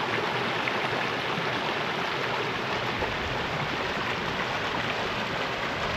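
Moorland river running over rocks: a steady rush of flowing water.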